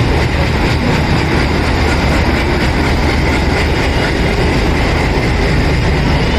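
Passenger train being hauled into the platform by a diesel shunting locomotive: a steady, loud rumble of the engine and the rolling coaches.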